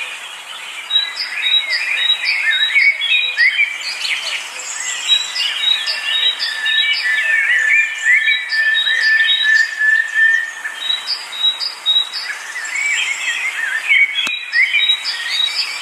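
Several birds chirping and singing at once in many short, quick calls, with a steady high trill held for about four seconds in the middle and a single sharp click near the end.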